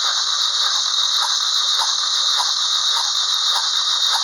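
Opel Z14XEP 1.4-litre 16-valve four-cylinder petrol engine being cranked over by its starter motor for a compression test on the second cylinder. A steady high whine is broken by a regular beat of about two compression strokes a second.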